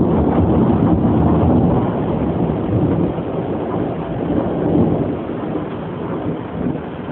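Thunder rolling in a long, low rumble that slowly fades away, over steady rain.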